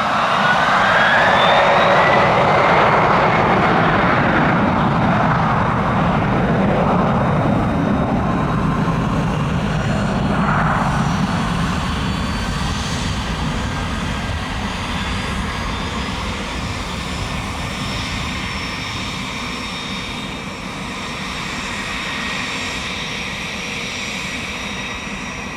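Gulfstream G500 business jet's twin turbofan engines at takeoff power: loudest in the first few seconds, with a whine rising in pitch, then a steady rumble that slowly fades as the jet climbs away.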